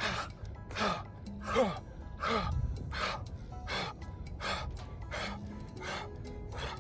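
Forceful rhythmic breathing in a "fire breath" breathing exercise, one sharp breath about every 0.7 seconds.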